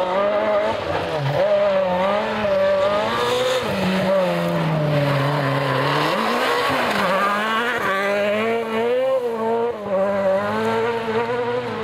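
Rally car engine revving hard, its note climbing and dropping again and again through gear changes. About four seconds in the revs fall away for a couple of seconds, then pick up sharply again.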